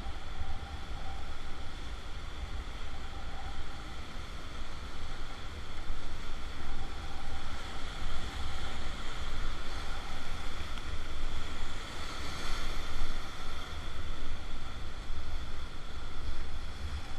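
Rushing whitewater of river rapids around a raft, a steady churning wash of water, with wind buffeting the microphone as a low rumble underneath.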